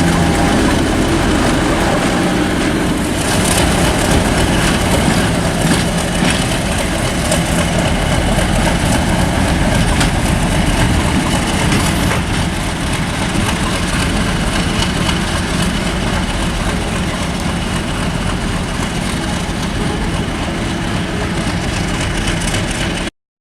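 Heavy diesel locomotive engine idling steadily, with a deep rumble. The sound cuts off suddenly near the end.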